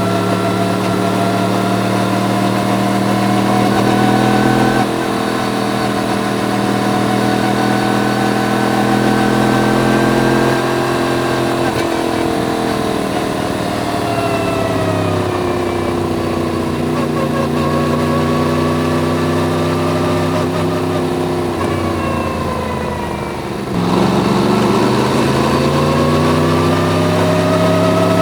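Yamaha MT-10's crossplane inline-four running under way: the note holds steady at first, then sinks slowly as the throttle is eased and the bike slows. A little before the end the throttle is opened sharply and the engine note climbs as it accelerates.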